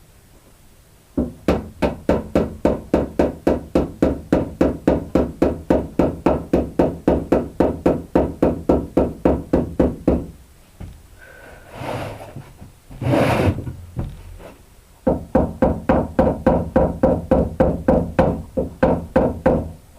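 Cordless drill running with a rapid, even knocking about four to five times a second, in two runs of about nine and five seconds, with a couple of short scrapes between them.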